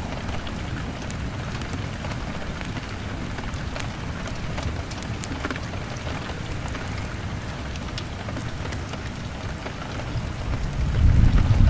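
Rain on a window with a crackling fire: a steady hiss of rain dotted with scattered sharp crackles, and a low rumble that swells near the end.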